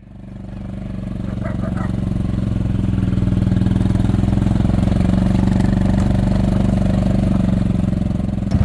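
A small vehicle's engine running at a steady speed, its sound growing over the first two or three seconds and then holding even.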